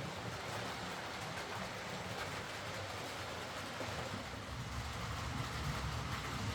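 Hornby Britannia Class OO gauge model steam locomotive running along the layout track: a steady motor whir and wheel-on-rail noise, with a low rumble that grows a little louder in the second half.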